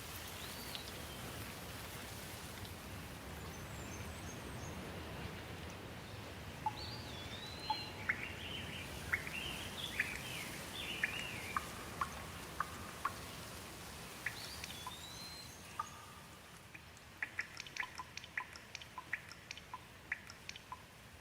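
Steady rain falling, with birds chirping and calling over it in short whistled glides and sharp chirps through the middle. Near the end the rain eases a little and quick sharp ticks come in.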